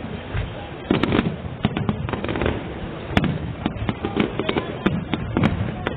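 Fireworks display: a fast, irregular run of sharp cracks and bangs over a low rumble, growing denser after the first second.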